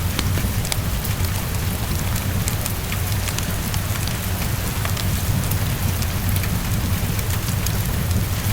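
Steady heavy rain on a window, with a deep low rumble underneath. Scattered sharp clicks through it are the crackle of a fireplace.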